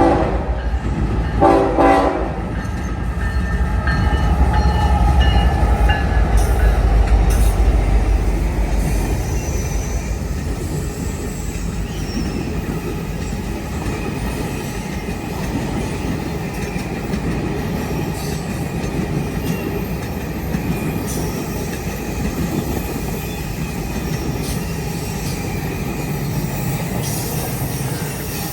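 Passenger train passing: a short horn blast about a second and a half in, then the low rumble of the diesel locomotives going by, followed by the steady rolling and clicking of the passenger cars' wheels on the rails.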